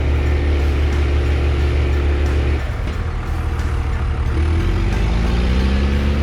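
Diesel engine running steadily. It eases off about two and a half seconds in, then revs up with a rising pitch near the end.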